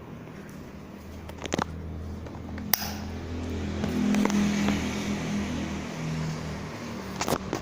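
Profan industrial ceiling fan running: a steady motor hum that grows louder around the middle and eases off again, with a few sharp clicks.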